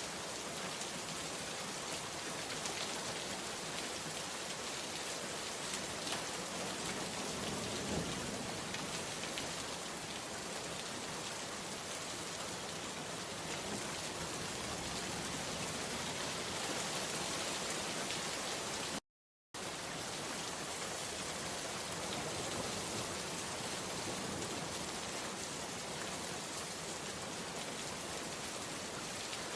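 Steady rain falling, an even hiss of many drops with scattered sharper drop ticks. The sound cuts out completely for about half a second around nineteen seconds in, then resumes unchanged.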